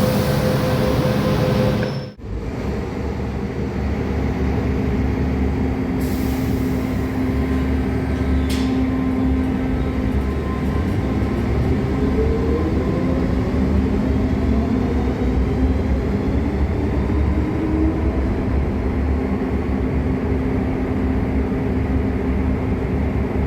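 MTR M-Train electric multiple unit leaving the station, with a steady rumble of wheels on rail and a motor whine that rises in pitch about ten seconds in as the train accelerates.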